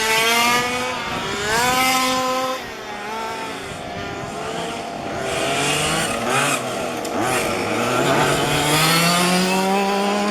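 Small two-stroke petrol engines of 1:5-scale RC cars racing, several at once, their pitch rising and falling as they rev up and back off. One engine climbs steadily in pitch near the end.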